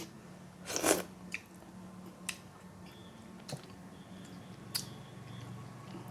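Close-up mukbang eating sounds: a short, loud bite about a second in, then a few sharp mouth or utensil clicks over a low room hum.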